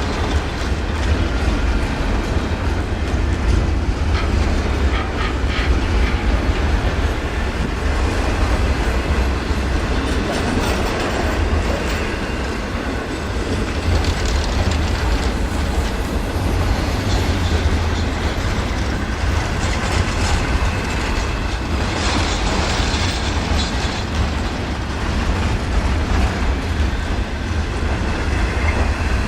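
Train cars rolling past at speed: a steady rumble of steel wheels on the rails, with the clickety-clack of rail joints.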